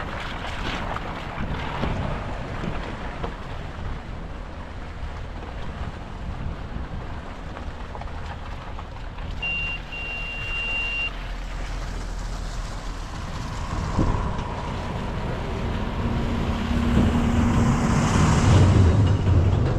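Wind buffeting the microphone over the low rumble of vehicle traffic. A short high beep sounds about halfway through, and the rumble grows louder near the end as a vehicle comes close.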